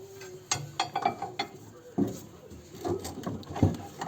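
Irregular metal clanks and knocks, about eight in four seconds, as a car's front lower control arm is worked loose and pulled out of the suspension with hand tools.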